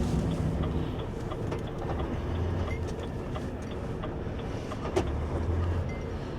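Truck's diesel engine running, heard from inside the cab, with a steady low rumble and light cab rattles and clicks; a sharper click about five seconds in.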